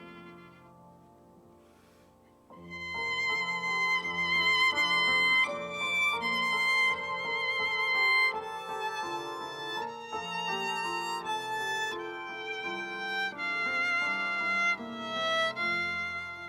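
Music: a violin playing a slow, sustained melody with vibrato over held low accompanying notes. It fades at first, then comes in louder about two and a half seconds in.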